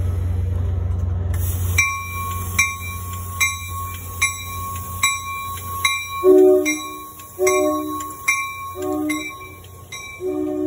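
Passenger train coaches rolling alongside a station platform with a low rumble. About two seconds in, a rapid ringing begins, one clanging strike about every 0.8 s. About six seconds in, a lower-pitched ringing joins it in short strokes about every second and a half.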